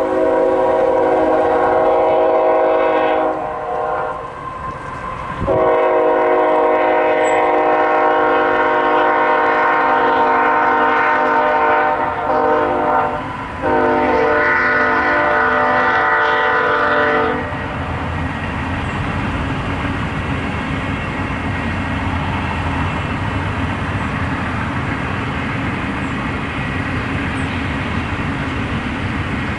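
Freight locomotive's multi-chime air horn sounding two long blasts, a short one and a long one, the grade-crossing signal. After that the BNSF intermodal train rolls past with a steady rumble of locomotive and rail cars.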